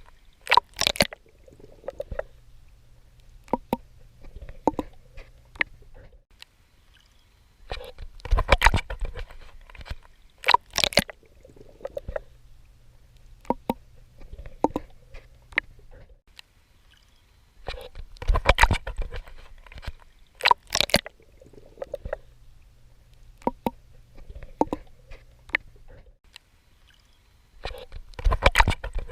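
Swimming in sea water: sets of splashy strokes at the surface come about every ten seconds. Between them are a low, muffled rumble and soft gurgling.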